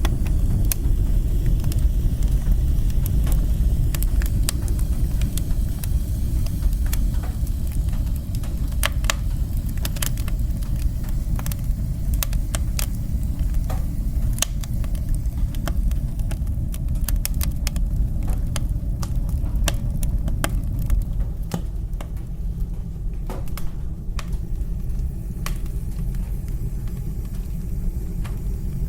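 Wood fire burning in a fireplace: a steady low roar with sharp crackles and pops scattered throughout. The roar eases a little about two-thirds of the way through.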